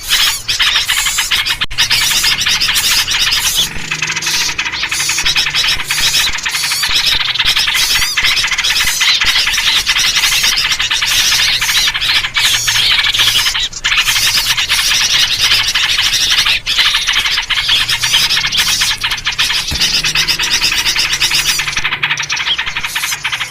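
A dense, unbroken chorus of small birds chattering and calling noisily, the agitated 'ribut' bird noise used as a lure recording to draw in wild birds, in a version built on yellow-vented bulbul (trucuk) calls.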